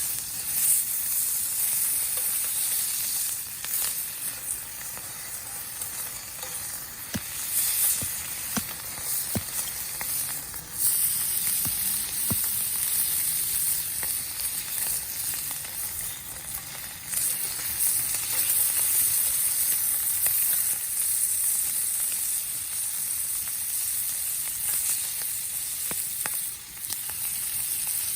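Food sizzling as it fries in a pan, with scattered light clicks; the sizzle grows louder in steps partway through.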